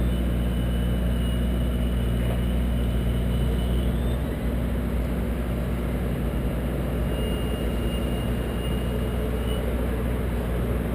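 Engine of an aerial lift running steadily with an even, low drone.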